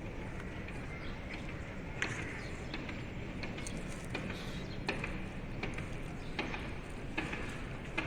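Light, scattered taps and clicks of utensils on a cooking pot as ingredients are spooned in, over a steady background hiss.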